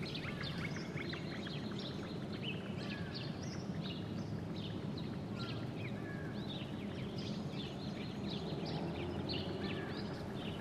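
Small birds chirping and twittering in many short calls, over a steady low background rumble.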